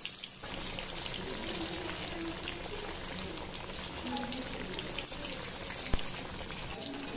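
Semolina-coated bread cutlet frying in hot oil in a wok: a steady sizzle with fine crackles. One sharp click about six seconds in.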